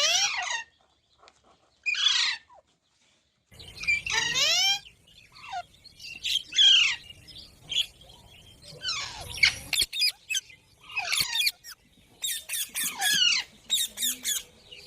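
Pet green parrot calling with a series of shrill squawks, each sweeping in pitch, spaced out at first and then coming in quick runs of short calls near the end.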